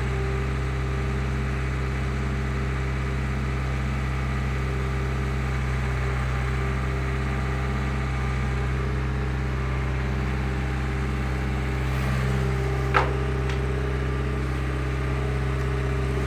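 Skid steer engine running steadily, with one sharp knock about three-quarters of the way through.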